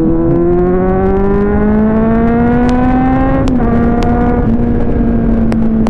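Kawasaki Z800's 800cc four-cylinder engine pulling hard under throttle, rising steadily in pitch, then dropping sharply on an upshift about three and a half seconds in and running on at a steady pitch.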